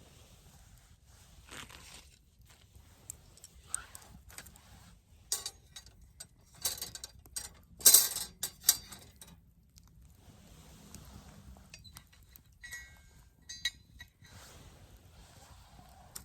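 Handling of camp gear: scattered rustles and knocks, the busiest and loudest about halfway through, then a few light metallic clinks near the end.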